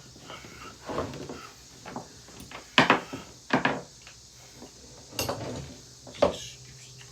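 Irregular knocks and clatters of a Hoover vacuum cleaner being worked apart: about five sharp hits, the loudest about three seconds in.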